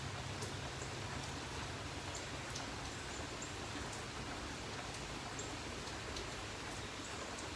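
Steady rain falling, with scattered sharp ticks of single drops landing.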